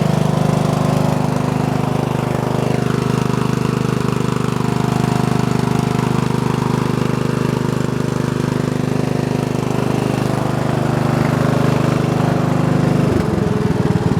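Briggs and Stratton 14 HP single-cylinder OHV vertical-shaft engine running steadily at speed, freshly fitted with a new carburetor, with its speed dropping about a second before the end.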